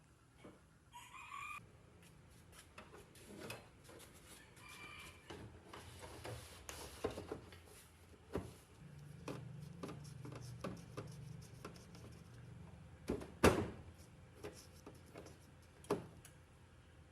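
A chicken calling briefly about a second in and again around five seconds, over a run of scattered clicks and knocks from hand work; the loudest knock comes about two-thirds of the way through.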